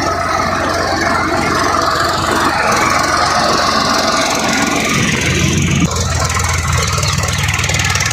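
Swaraj 744 XT tractor's diesel engine running hard under load, with a high squealing, grinding noise over it. A little past halfway the mix shifts, the low engine note coming forward.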